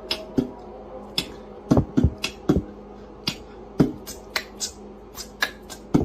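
Irregular sharp clicks and light knocks, a few a second, some with a dull thud, over a steady low hum.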